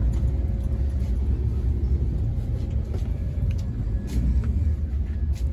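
Passenger train running, heard inside a sleeper coach: a steady low rumble with a few sharp clicks, one about four seconds in and one near the end.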